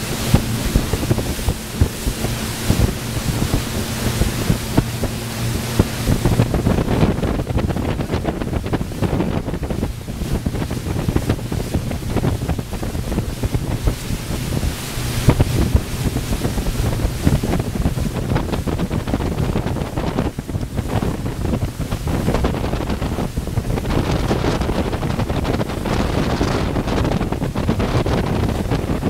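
Wind buffeting the microphone and water rushing past the hull of a Carver 3207 cabin cruiser under way, over the low steady drone of its engines, which is clearest in the first six seconds.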